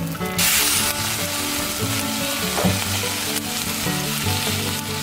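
Egg dropped into a hot oiled pan: a loud burst of sizzling about half a second in, then steady sizzling and frying.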